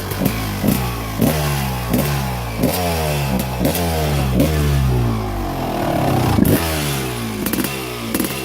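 1998 Suzuki RM250's two-stroke single-cylinder engine running and being revved in quick repeated throttle blips, about three every two seconds, the pitch falling back after each; the strongest blip comes a little after six seconds in.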